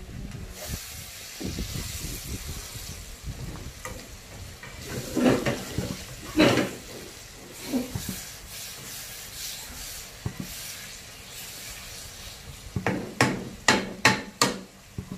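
Fish skin and spice paste sizzling in hot oil in a pan, stirred with a spatula. The spatula knocks against the pan a few times around the middle, then in a quick run of four or five knocks near the end.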